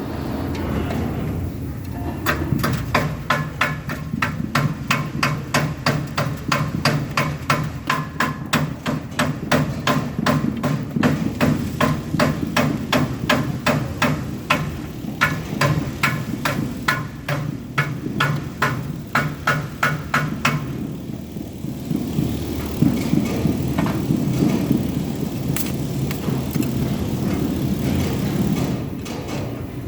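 Quick, regular hammer blows, about three a second, starting about two seconds in and stopping about twenty-one seconds in, with a few scattered knocks near the end. A steady low hum from a running machine lies underneath.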